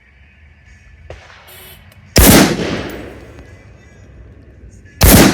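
Two gunshots about three seconds apart, each loud and sudden with a long fading echo; the second comes right at the end.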